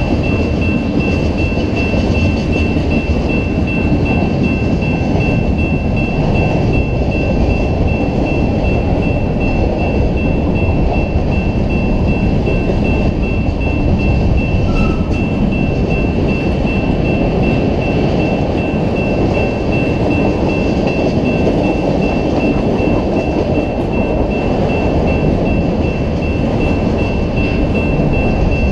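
Freight train cars rolling past at track level: a loud, steady rumble of steel wheels on rail, with a thin, steady high whine over it.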